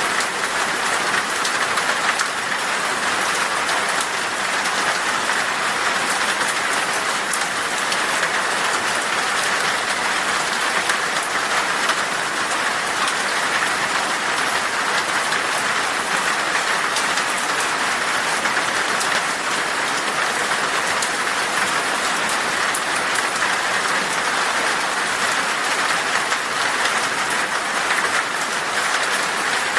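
Heavy rain falling steadily on glass, a dense, even patter of drops that neither builds nor eases.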